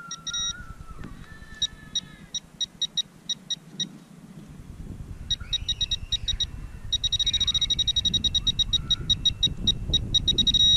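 Teknetics Tek-Point pinpointer beeping as it is probed in the hole: short high beeps, a few a second at first, speeding up after about five seconds into a rapid stream that is almost a steady tone, the sign that the probe is closing in on a metal target. A low rustle of handling in the dirt rises under it from about halfway through.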